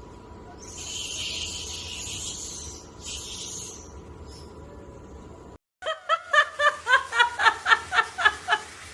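A high hissing noise in two stretches, then after a sudden cut, a person laughing hard in quick rhythmic bursts, about four a second.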